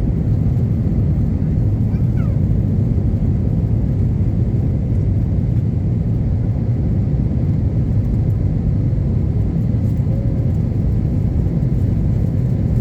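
Airbus A321neo cabin noise during the climb after takeoff: a steady, loud, low rumble of engines and airflow heard from inside the cabin.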